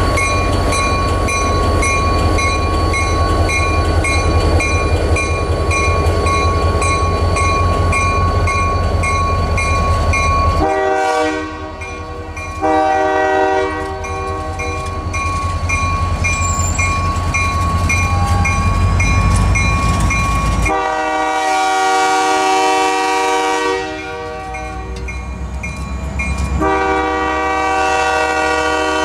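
Passenger train cars rolling past with a low rumble and wheel clatter. From about 11 seconds in, the train's multi-tone horn sounds in long blasts.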